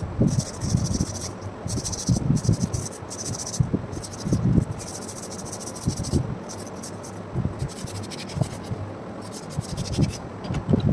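Irregular scraping strokes, each a short hiss, with soft knocks in between: hand work rubbing or scraping at a workpiece.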